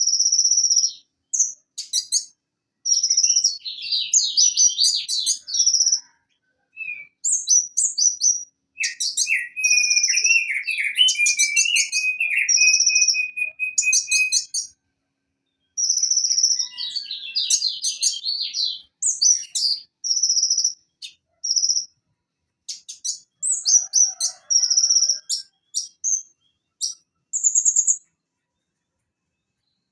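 Konin sunbird (kolibri ninja, Leptocoma sperata) singing in bursts: high, thin repeated notes and quick twittering runs with short pauses between phrases, and a lower, rapid trill about nine seconds in that lasts some five seconds.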